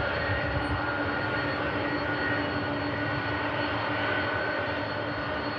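Boeing 747's jet engines running steadily, a continuous rushing noise with a ringing whine.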